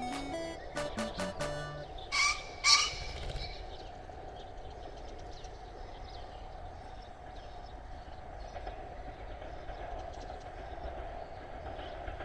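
A short stretch of background music, then a male green pheasant crowing twice, two harsh ringing notes about half a second apart: the territorial kēn-kēn call of its horo-uchi display. Faint chirps of other birds in the steady outdoor background afterwards.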